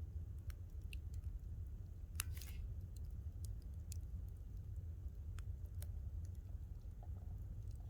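Wood campfire crackling: sharp pops at irregular intervals over a steady low rumble, with one louder crack and a brief hiss about two seconds in.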